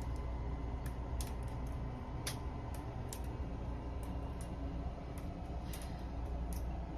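A steady low hum with irregular sharp ticks and clicks scattered through it, about a dozen in all.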